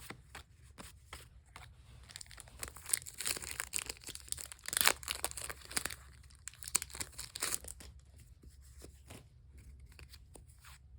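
A foil Pokemon booster pack wrapper being crinkled and torn open. There is a dense run of crackling and ripping through the middle with one loudest rip, and lighter handling clicks before and after.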